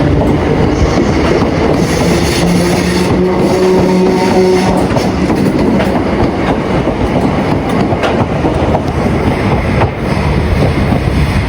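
A train passing close by, its wheels clattering over the rail joints. A steady hum runs under the noise for the first four seconds or so, then fades.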